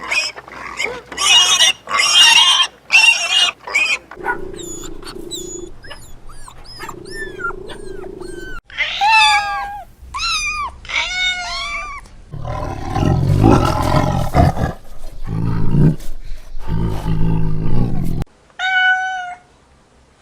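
Several different animal calls in turn. First comes a run of short, harsh calls, then high calls that fall in pitch. After that comes a loud, deep, rough call in the second half, and one short higher call near the end.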